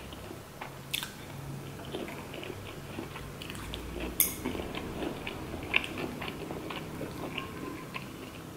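A person chewing a mouthful of sushi roll: soft wet mouth sounds and many small clicks, with a sharper click about four seconds in.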